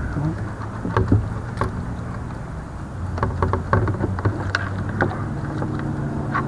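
Short clicks and knocks of fishing tackle and the kayak hull while a hooked bass is played, over a steady low motor hum.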